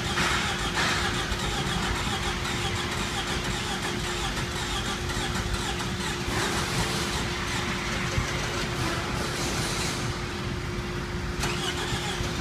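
Freshly rebuilt 2AZ-FE 2.4-litre four-cylinder engine of a 2007 Toyota RAV4 on its first start after the rebuild, running with a steady whine.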